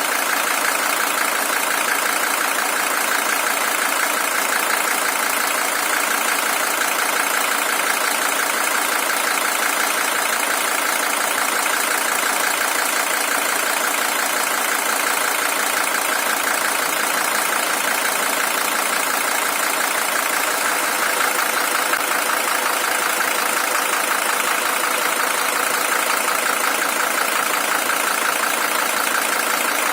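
Mercedes-Benz OM617 five-cylinder diesel engine in a W123 300TD, idling steadily with its diesel clatter.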